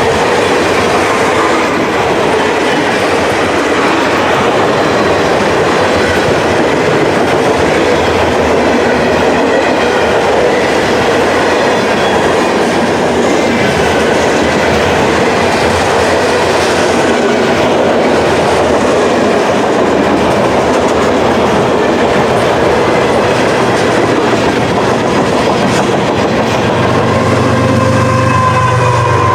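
Freight train cars rolling past with a rhythmic clickety-clack of the wheels, under heavy wind noise on the microphone. Near the end a steady low hum and a higher tone come in.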